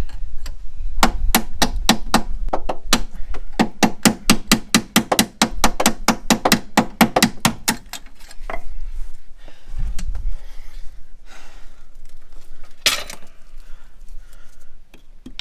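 Rapid hammer blows on metal, about four a second for several seconds, knocking a cut-through, rusted lower strut mounting bolt out of a car's rear suspension. A dull thud follows, and then a single metal clank near the end.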